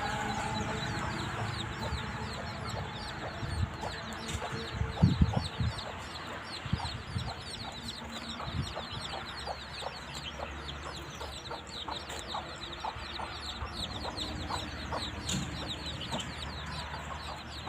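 A flock of chickens clucking, over a constant chorus of short, high, falling calls. A few louder low knocks come about five seconds in.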